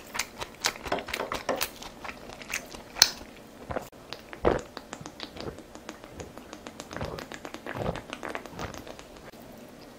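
Close-miked eating: chewing and biting with irregular wet mouth clicks and crunches, a couple of louder bites about three and four and a half seconds in.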